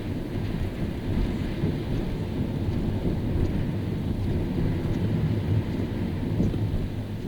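Car driving on a rain-soaked road: a steady low rumble of tyres and road with an even hiss of water spray and rain.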